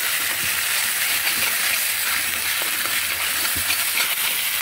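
Spice masala of onion, ginger-garlic paste and ground spices sizzling steadily in hot oil in a pan, stirred with a spatula that scrapes and ticks against the pan now and then.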